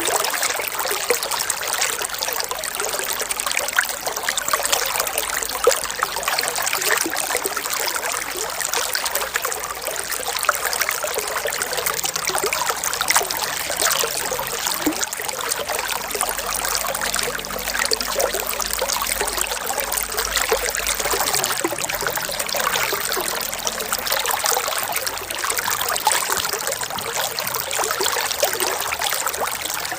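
Running water trickling steadily, an unbroken, bubbling rush like a small stream.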